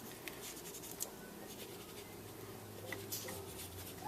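Faint scratching and rubbing of a colouring tool on card stock, with a few small ticks.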